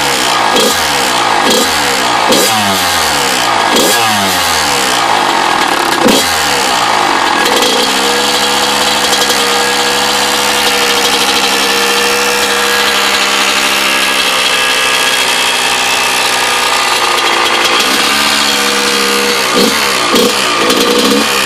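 Kawasaki KX100 single-cylinder two-stroke engine being blipped repeatedly, then held at a steady speed for about ten seconds, then blipped again near the end. The freshly rebuilt motor makes a strange noise that the owner suspects comes from the power valve.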